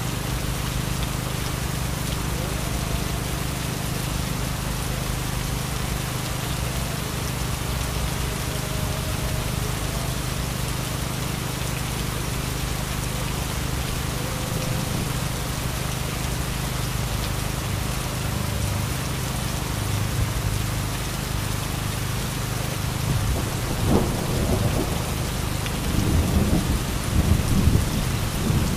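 Heavy rain pouring steadily with a deep rumble underneath; about two thirds of the way through, thunder begins to crackle and rumble louder, swelling again near the end.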